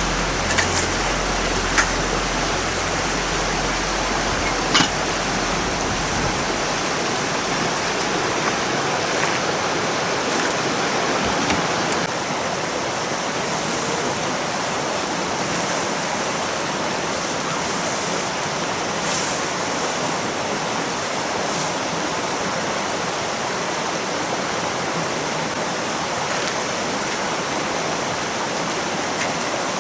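A river rushing steadily, with a low hum underneath that fades out about seven seconds in. A few light clicks are heard in the first five seconds.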